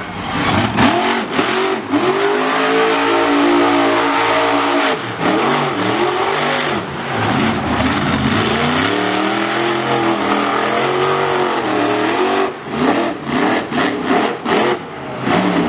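Monster truck engine revving hard, its pitch climbing and falling again and again. There are choppy, crackling stretches in the first two seconds and again near the end.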